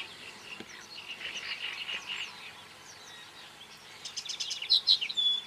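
Songbirds singing: a warbling trill about one and a half seconds in, then a quick run of high repeated chirps near the end.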